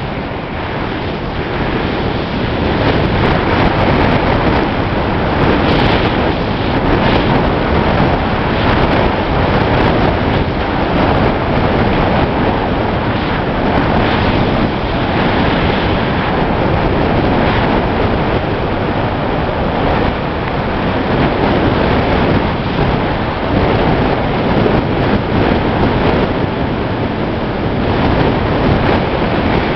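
Loud, steady rush of wind and road noise from a moving car, with wind buffeting the microphone.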